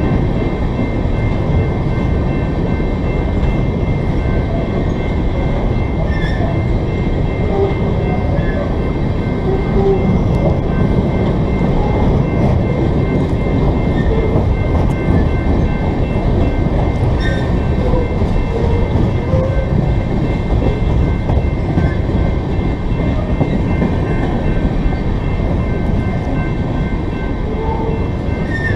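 Loaded-or-empty coal hopper cars of a freight train rolling steadily past: a continuous rumble of steel wheels on rail, with a few faint clicks over rail joints.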